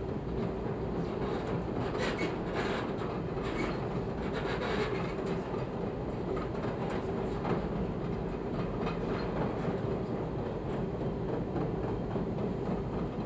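Chicago 'L' rapid-transit train running on elevated track, heard from inside the front car: a steady running rumble with a constant hum and irregular clicks of the wheels over rail joints.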